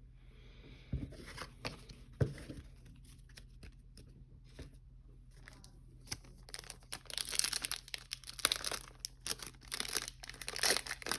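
A trading-card pack wrapper being torn open and crinkled, busiest in the last few seconds, after a few soft knocks of cards being handled.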